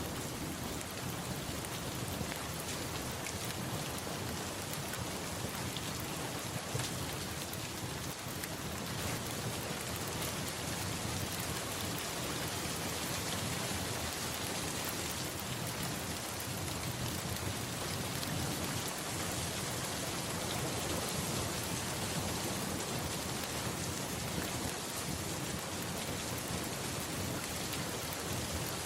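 Steady rain falling, a continuous even hiss with no break.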